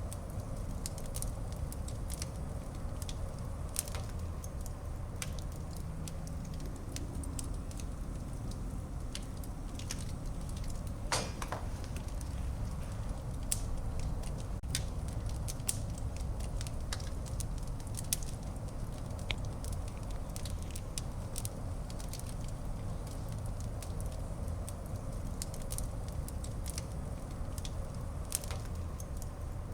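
Wood fire burning in a fireplace: a steady low rumble of flames with irregular sharp crackles and pops, a longer sputtering pop about eleven seconds in.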